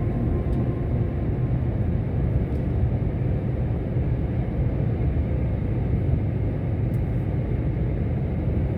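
Heavy truck on the road: a steady low rumble of engine and road noise.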